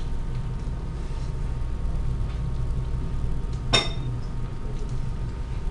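A steady low hum, with a single light clink a little past the middle that rings briefly.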